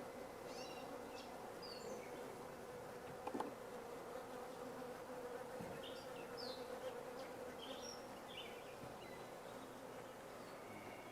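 Honey bees humming steadily around an open hive, a faint even buzz. A single short knock about three seconds in.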